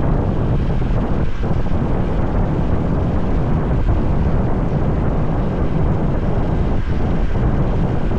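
Steady rush of wind on the microphone of a motorbike riding at speed, mixed with the bike's running and the road and traffic noise of a highway.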